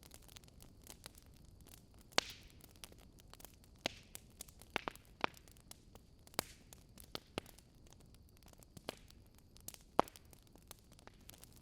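Wood fire crackling: irregular sharp pops and snaps from burning logs over a faint low hiss, with the loudest pops about two seconds in and near the end.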